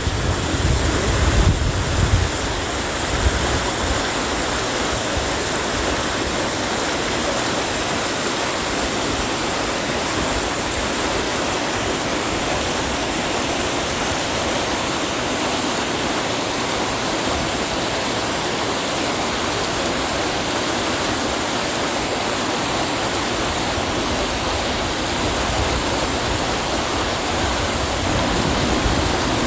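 Mountain valley stream rushing in a steady wash of water. Wind buffets the microphone in the first couple of seconds.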